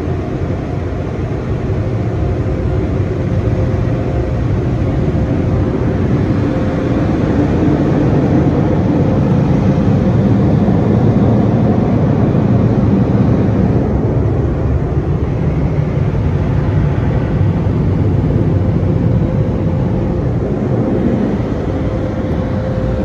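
Car wash dryer blowers running with a loud, steady rush of air and a steady hum, swelling a little midway.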